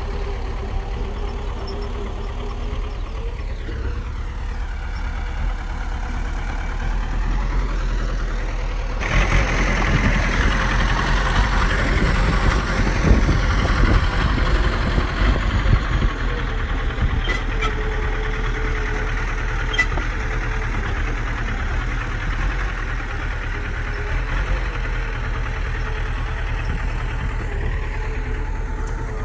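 Bulldozer's heavy diesel engine running steadily, growing louder and harsher from about nine seconds in for several seconds, with a few sharp metallic clanks soon after.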